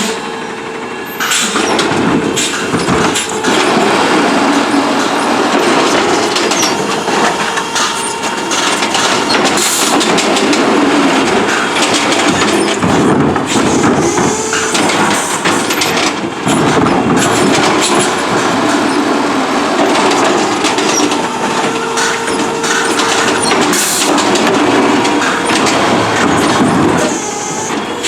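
Autocar ACX CNG garbage truck running, with loud continual rattling and clattering; the sound comes in about a second in and drops away near the end.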